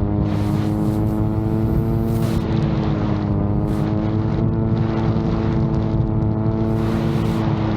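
Propellers of a VTOL drone in flight giving a steady, pitched drone that dips and recovers slightly in pitch, over a low rumble of strong wind on the microphone.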